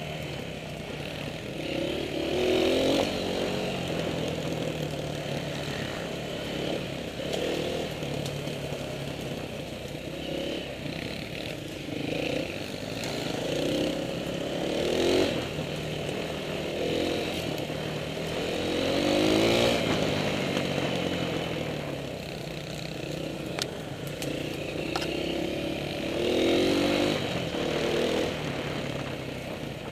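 Dirt bike engine on a trail ride, revving up and dropping back every few seconds as the throttle is opened and closed.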